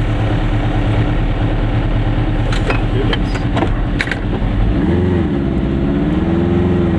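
Goggomobil's small two-stroke twin engine running steadily under way, its pitch rising and wavering about five seconds in as the revs change. A few sharp clicks come between about two and four seconds in.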